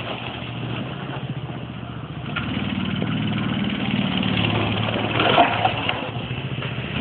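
Mini bike's small engine running while the bike is ridden, quieter at first and then picking up about two seconds in as the throttle opens.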